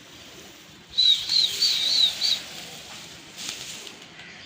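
A small bird chirping: a quick run of about five short, high, wavering notes starting about a second in and lasting about a second and a half. A brief rushing sound follows a little later.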